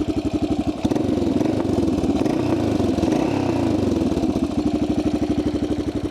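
1985 Yamaha XT600's single-cylinder four-stroke engine running while ridden. It picks up and pulls harder about a second in, then eases off to slower, more distinct beats near the end.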